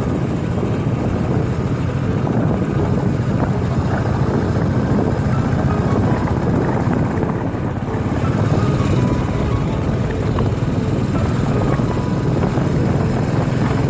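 Motorbike running steadily while being ridden, a continuous low engine-and-road noise that holds level throughout.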